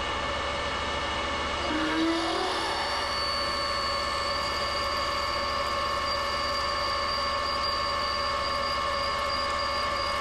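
Metal lathe running steadily while a 12.8 mm drill bores into an aluminium bar. A high, steady whine joins the machine's hum about three seconds in as the drill cuts.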